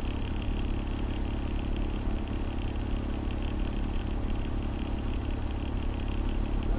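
Fire engine's diesel engine running steadily, a constant low drone heard from inside the cab.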